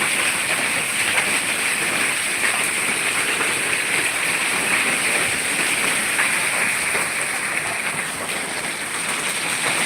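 Heavy storm rain mixed with hail pelting down on surfaces: a loud, steady, dense hiss with fine crackling hits.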